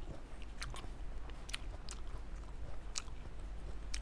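Close-miked chewing of green grapes, with about six sharp, crisp bites and pops spread through.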